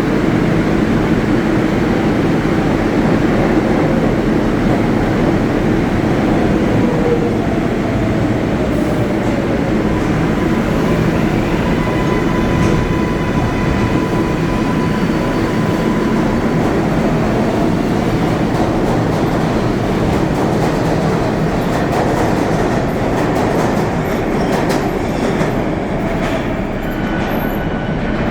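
New York City Subway 7 train moving through the underground Flushing–Main Street terminal: a steady, loud rumble of wheels on rail with faint thin squeals. Clicks from the rail joints grow more frequent over the last few seconds.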